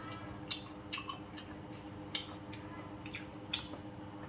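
Eating sounds of someone chewing food: a few sharp, short mouth clicks and smacks spaced irregularly, over a steady low hum.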